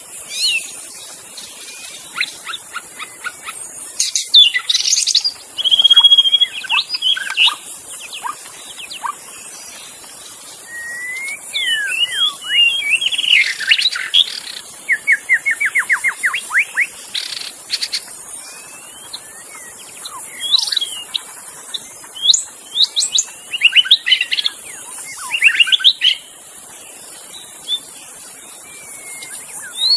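White-rumped shama singing a varied song of clear whistles, sliding notes and chattering phrases in quick succession, with a fast even trill about halfway through. A steady high hiss runs underneath.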